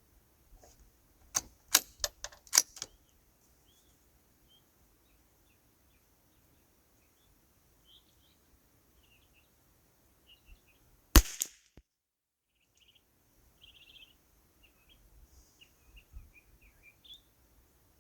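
A single .22 rimfire rifle shot about two-thirds of the way in, the loudest sound, firing SK Pistol Match ammunition. A quick run of sharp metallic clicks comes near the start, like a bolt being worked. Small birds chirp faintly throughout.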